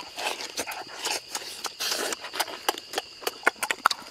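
Close-up eating sounds: people biting and chewing roasted goose meat, with many quick, irregular wet smacks and clicks of lips and teeth.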